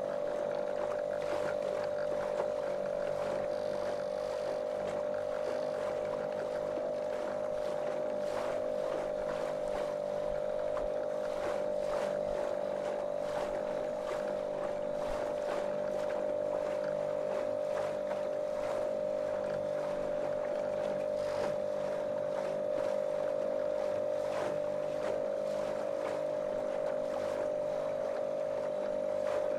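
Small motorboat's motor running at a constant speed, a steady, monotonous drone, with water rushing and slapping against the moving hull as short irregular splashes.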